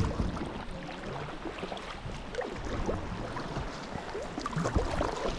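Water lapping and splashing around a sea kayak on the move, with small irregular splashes from the paddle and a slightly louder splash near the end.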